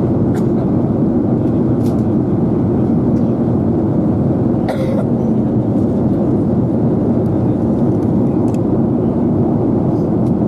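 Steady rush of jet engine and airflow noise inside the cabin of a Boeing 737-800 airliner in flight.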